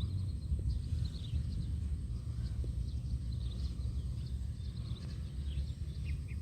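Birds chirping: many short, high chirps that drop in pitch, over a steady low rumble.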